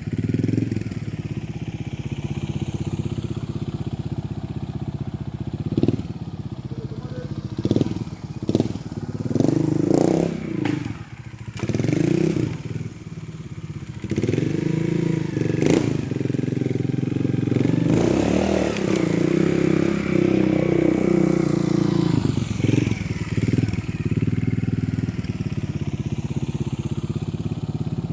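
Trials motorcycle engine running through a practice section, repeatedly blipped up and back down in pitch between steadier stretches, with several sharp knocks along the way.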